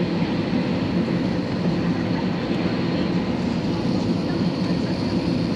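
Steady hum and rush of air inside the passenger cabin of an Airbus A320 on the ground, the aircraft's ventilation and systems running without change.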